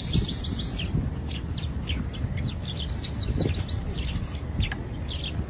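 Small birds chirping: many short, high chirps, a quick run of them at the start and scattered ones after, over a steady low rumble.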